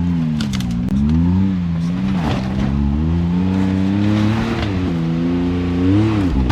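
Side-by-side UTV engine revving up and down in repeated throttle bursts as it climbs a rocky section, with a few sharp clicks and knocks in the first couple of seconds.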